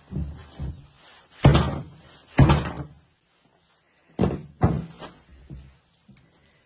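A series of heavy knocks or thuds, each dying away quickly; the four loudest come in two pairs, about a second and then half a second apart.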